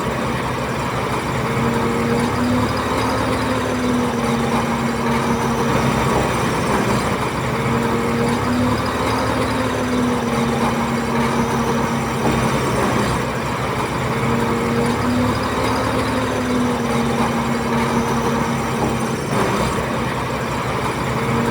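Diesel engines of heavy earthmoving machinery running steadily, with a humming tone that swells and fades every few seconds.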